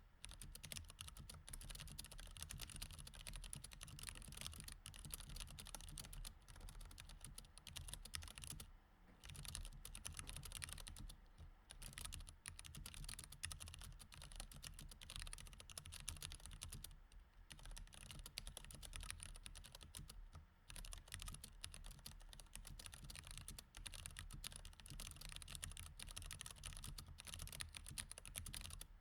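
Continuous typing on a mechanical keyboard with Cherry MX Red linear switches: a dense, uneven run of key presses, broken by a few short pauses.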